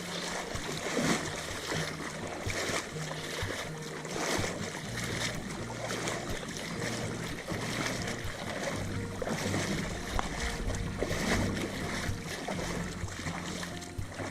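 Small waves lapping at the lagoon's edge, with wind rumbling on the microphone.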